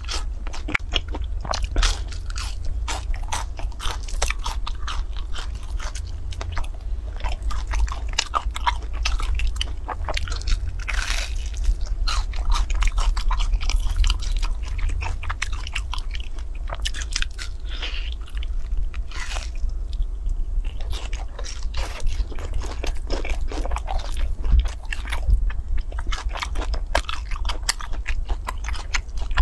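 Close-miked biting and chewing of a soft, crumb-coated cake: a dense run of small wet mouth clicks and smacks, over a steady low hum.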